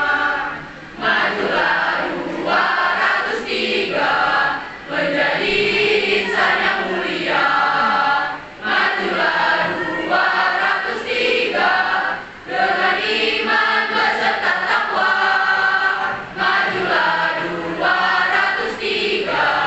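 School choir of mixed voices singing a march in phrases, with short breaks between phrases.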